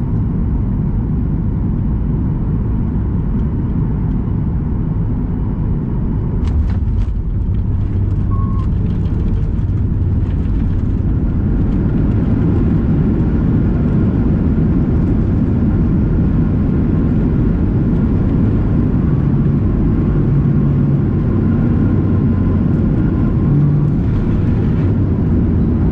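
Steady low roar of a Boeing 737 MAX 8's engines and airflow heard from inside the passenger cabin while landing. A few sharp clicks come about six and a half seconds in, and the noise grows fuller and slightly louder after about twelve seconds.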